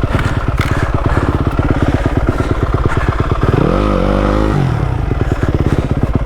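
Yamaha WR250F's single-cylinder four-stroke engine running at low revs, blipped up once about halfway through and dropping back, while the bike is stuck against a tree in the snow.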